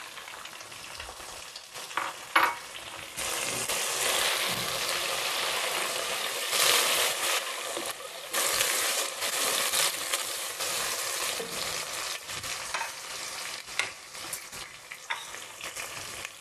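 Chopped tomatoes sizzling in hot oil with fried onions in a cooking pot as they are stirred with a spatula. The sizzle swells about three seconds in and eases off toward the end.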